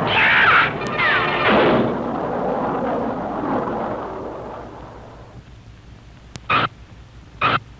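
Cartoon crash-and-explosion sound effects on an old film soundtrack: a loud rushing rumble with two blasts and a short falling whistle in the first two seconds, dying away over the next few seconds, then two short sharp stabs near the end.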